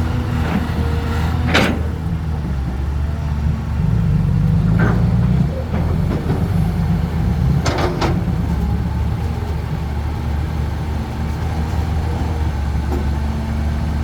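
Heavy diesel engine of a work vehicle running steadily, its note briefly louder around four to five seconds in. Sharp knocks come about a second and a half in and again around eight seconds in.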